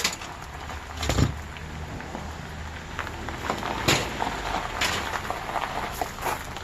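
Scattered knocks and clatters of tools on metal as an air conditioner is taken apart for scrap, five or so sharp hits a second or so apart, over a steady low rumble.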